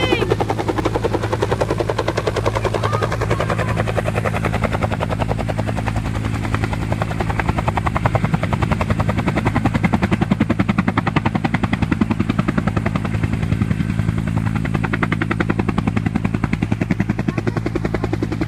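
Helicopter coming in to land, its rotor blades beating in a fast, even rhythm over a steady engine hum.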